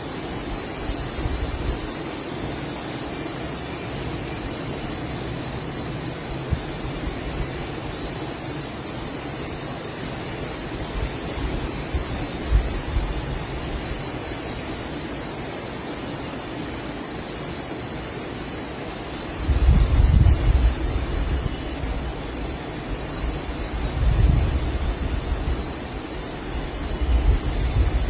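Steady high-pitched insect chorus, with a pulsing trill that comes and goes several times. Wind buffets the microphone in gusts from about two-thirds of the way in.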